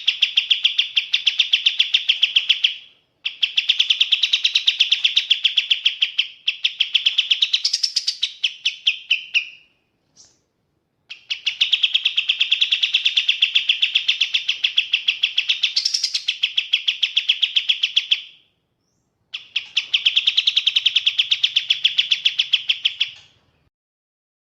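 Kapas tembak songbird singing in long bouts of fast, evenly repeated high chirping notes, each bout lasting a few seconds with short breaks between; the song stops about a second before the end.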